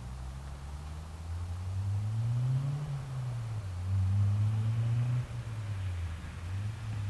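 Mazda Miata NA 1.8-litre inline-four running through a Cobalt cat-back exhaust, the exhaust note rising to a peak about three seconds in, falling back, rising again and dropping suddenly a little after five seconds.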